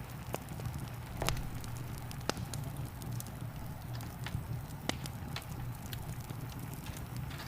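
Wood fire in a fireplace crackling, with irregular sharp pops, a few of them louder, over a steady low rumble and a soft hiss of rain.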